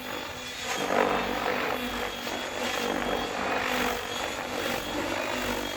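Electric Logo 700 RC helicopter flying tic-toc side-click flips: its main rotor whooshes and its motor whines steadily, the whoosh swelling and easing about once a second as the blades bite with each flip.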